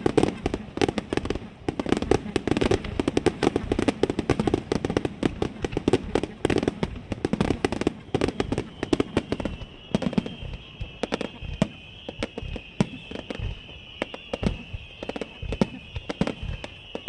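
Aerial firework shells bursting in a rapid volley, a dense run of bangs and crackles several a second that thins out about halfway through. After that, a steady high-pitched shrill sound runs under the scattered bursts.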